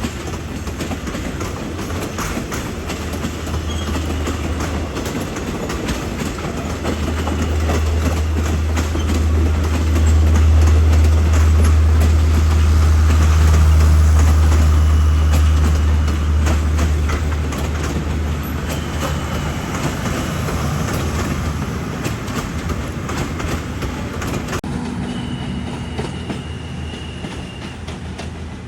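Diesel train passing at close range: a low engine drone and wheels clacking over rail joints, loudest about halfway through, then fading.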